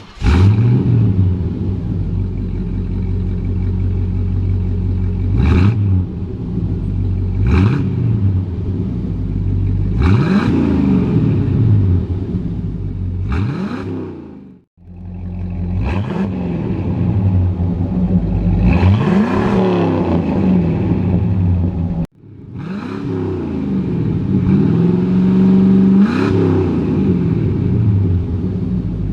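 1981 Chevy K10's 5.7 V8 running through SpinTech dual mufflers: it fires up, idles with a deep rumble, and is blipped about seven times, each rev rising and falling back to idle. The sound drops away briefly twice, around the middle and again about two-thirds of the way through.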